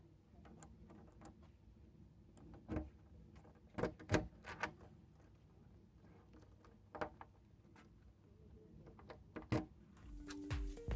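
A few faint, scattered knocks and clicks over a low steady background, clustered a few seconds in; music begins near the end.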